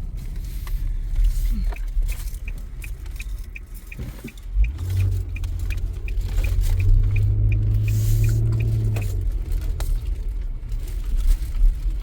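Car cabin road noise while driving, a steady low rumble of tyres and engine. Over it runs a regular light ticking of about two to three ticks a second, and a low hum comes in from about four and a half seconds to nine seconds.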